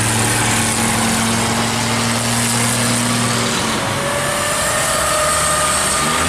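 Boat engines running steadily over a constant rushing noise; one engine's deep steady note drops out about three and a half seconds in and other, higher engine notes carry on.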